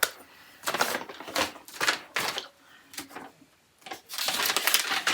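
Handling noise from assembling a flat-pack storage rack: several light clicks and knocks of parts being picked up in the first couple of seconds, then a rustling about four seconds in.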